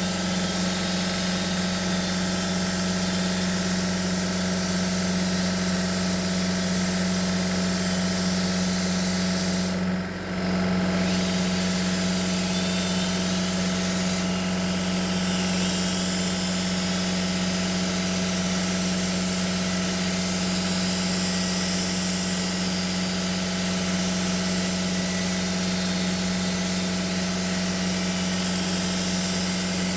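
Electric paint polisher running steadily on a car's paintwork, a constant motor hum with a brief dip about ten seconds in.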